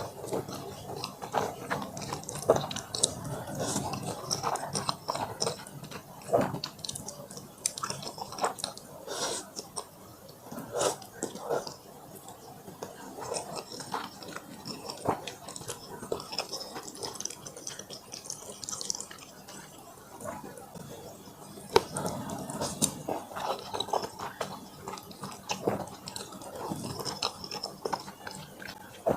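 Close-miked eating: a person chewing and biting into fried chicken and black bean noodles, with many short, crisp crackles and clicks of bites and chewing, some louder than others.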